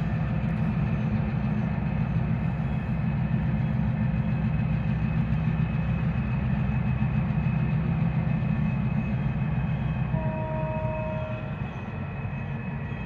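Union Railroad freight train of diesel locomotives and hopper cars running: a steady low rumble of engines and rolling wheels. A short steady tone sounds about ten seconds in.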